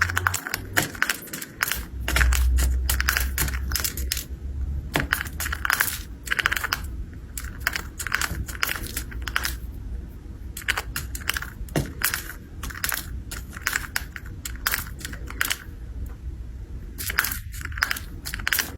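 A fast, irregular run of sharp clicks and crunching, with a low rumble underneath from about two seconds in.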